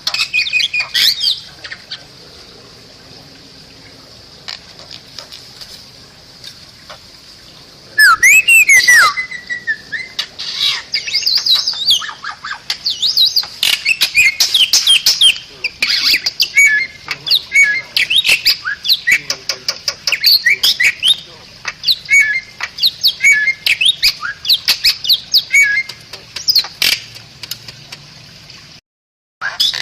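Bali myna singing: a fast, loud run of whistles, chirps and harsh squawks that starts in earnest about a quarter of the way in, after a brief burst of calls and a quieter pause.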